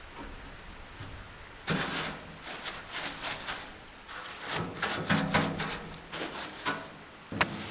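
Irregular scraping, rustling and knocking of hands and tools working over a hay baler, with a sharp knock near the end.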